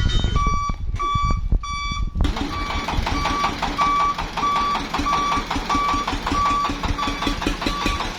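Vehicle's reversing alarm beeping at a steady pitch about twice a second over a running engine. About two seconds in the engine gets louder and a second, lower beep joins.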